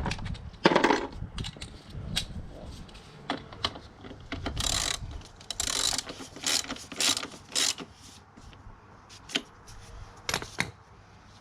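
A ratchet wrench clicking in irregular short runs, with metal tool clicks and clinks, while a motorcycle's rear chain adjusters are set.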